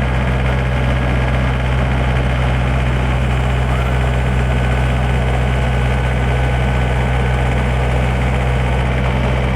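Backhoe's diesel engine running at a steady speed, a constant low drone with no revving.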